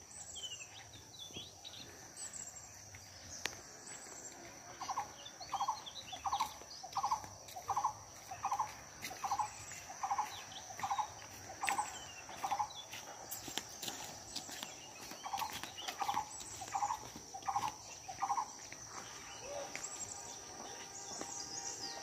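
A bird calling in a run of about a dozen short, evenly spaced notes, pausing, then giving about five more, with other birds chirping, over a steady high-pitched insect trill.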